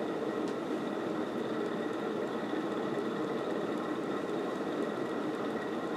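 Casablanca Delta II ceiling fan from 1986 running steadily on high speed, its worn bearings making a low, rumbly noise like a speeding train, along with the rush of air from the blades.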